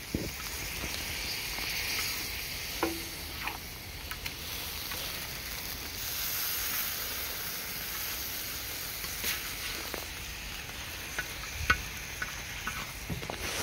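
Stir-fry sauce of soy sauce and chicken stock sizzling and simmering on a propane-fired Firedisc steel cooking disc, a steady hiss. A metal spatula stirs through it, with a few short scrapes and taps on the disc.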